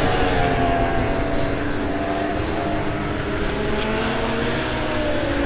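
Racing superbike engine at high revs on track, a steady drone whose pitch falls slowly over several seconds.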